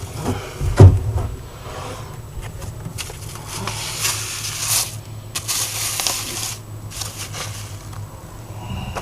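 Wood shavings drilled from a boat's transom being handled and crumbled on a sheet of paper: crackly rustling and scraping in several bursts, with a sharp knock about a second in.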